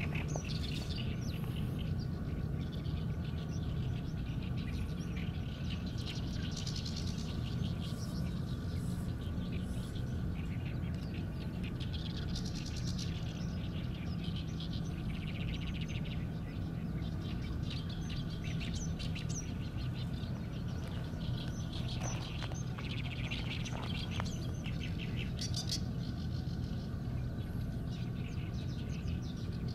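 Small birds chirping in scattered bouts, some as quick trills, over a steady low hum.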